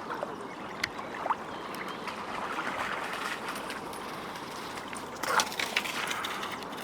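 River water lapping and splashing steadily, with a few sharper splashes, one near the start, one just after and one louder one about five seconds in.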